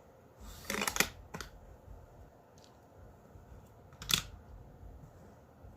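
Hot Wheels die-cast car and plastic track set clicking and clattering as a car is launched: a quick run of clicks about a second in, another click just after, and one sharp clack about four seconds in.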